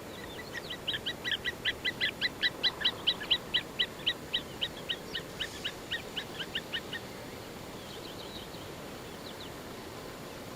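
A bird calling: a long run of sharp, rapid notes, about four or five a second, that builds in loudness and then fades away over some seven seconds. A few fainter notes follow near the end.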